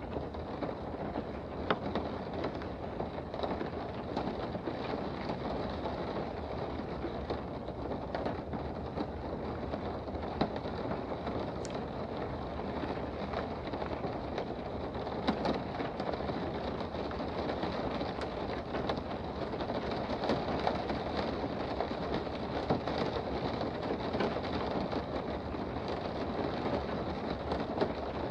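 Steady rain heard from indoors: a dense, even patter with scattered sharper drop ticks.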